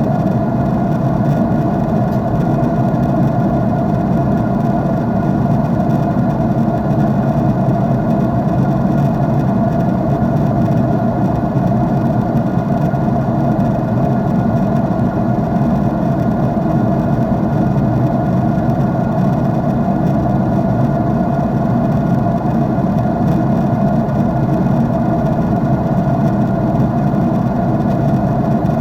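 Jet engine noise heard inside an airliner cabin in flight: a steady, unchanging hum, heaviest in the low and middle range.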